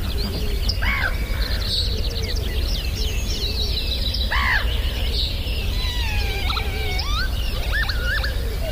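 Several birds singing at once, with many overlapping whistles and chirps, over a steady low rumble.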